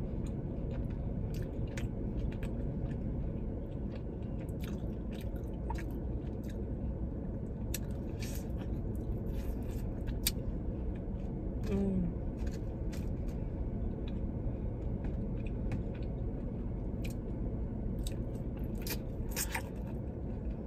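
Close-up chewing and sucking on bone-in chicken wings, stripping the meat off the bones, with scattered wet mouth clicks over a steady low background rumble.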